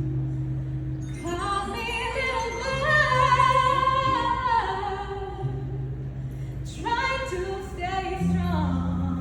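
A woman singing in two long phrases, holding notes with vibrato, over low sustained accompaniment notes.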